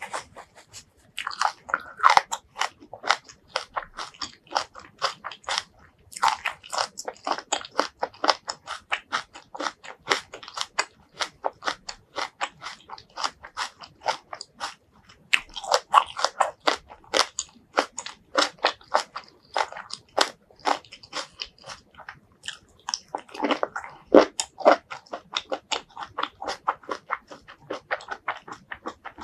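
Close-miked chewing and crunching of cooked vegetables coated in chili and garlic: quick, regular crunches, several a second, broken by a few short pauses.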